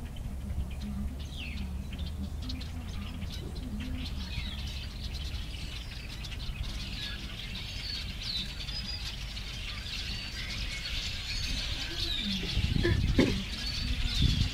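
A flock of birds chirping and calling, the chirps growing denser about halfway through, over a steady low hum, with a louder rushing sound shortly before the end.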